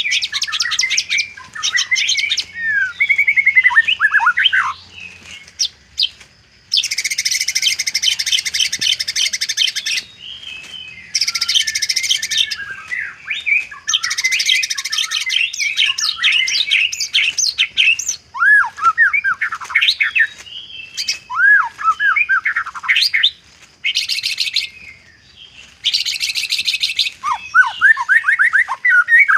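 White-rumped shama singing a varied, mimicry-filled song: loud whistled phrases that slide up and down in pitch, broken up by several dense, rapid, high rattling trills, each lasting one to three seconds.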